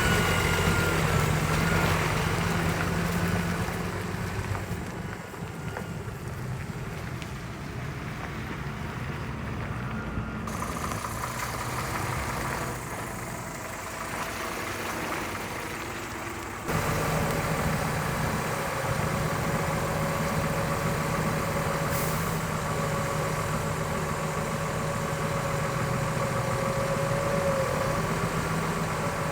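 Scania R500 timber truck's V8 diesel engine idling steadily. About two-thirds of the way through the sound cuts abruptly to a louder take of the same idle.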